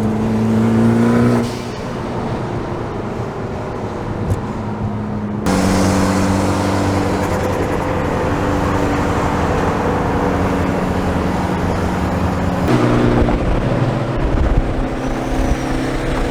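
Car engines running at a steady cruising pace over road noise. The audio is spliced from several clips, with abrupt changes about five and thirteen seconds in.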